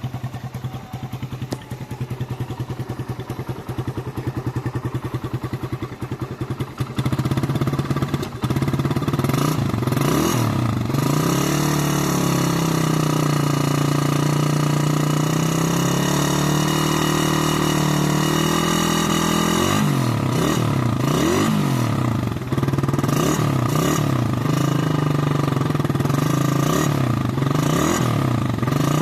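Suzuki Satria FU's single-cylinder four-stroke engine idling with a quick, even pulse. From about seven seconds in it gets louder and is revved up and down repeatedly, the exhaust note rising and falling.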